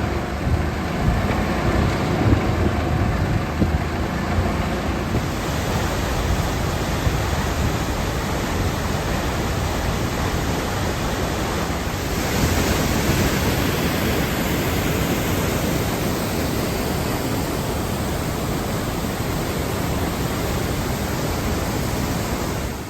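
Steady rushing noise, with no music or speech.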